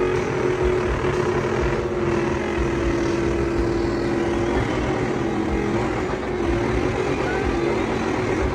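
A vehicle engine running steadily, with a constant hum that shifts about halfway through.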